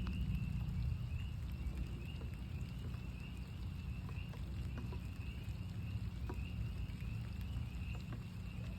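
Chorus of northern spring peepers: many short rising peeps overlapping without a break, with scattered raindrop ticks over a steady low rumble.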